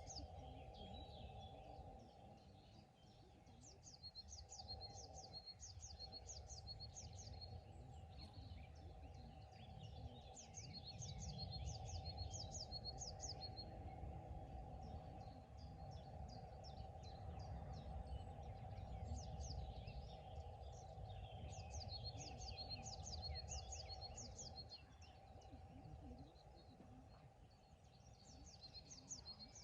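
A songbird singing short phrases of rapid, repeated high notes, about four phrases spaced several seconds apart, over a low rumble and a steady faint hum.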